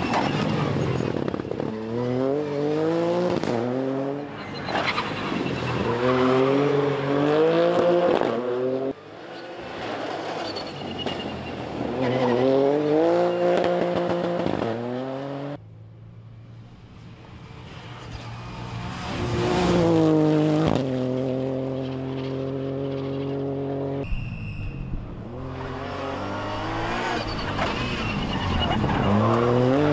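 Rally cars driven flat out on a special stage. The engines rev hard and climb in pitch through the gears, dropping at each shift, in several passes that break off abruptly.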